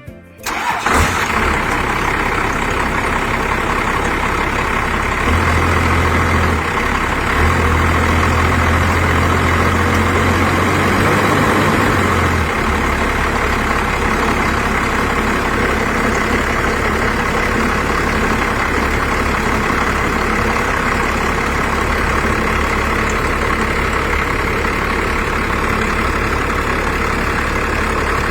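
A 1985 Chevrolet C10's 350 cubic-inch V8 with headers starts about a second in, then idles steadily for the rest of the time.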